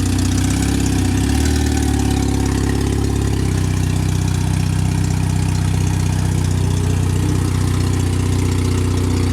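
Car engine idling steadily, with a slight change in its note about three and a half seconds in.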